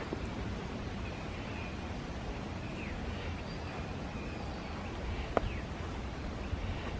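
Birds calling with short chirps and downward-sliding notes over a steady low wind rumble on the microphone, with one sharp click about five seconds in.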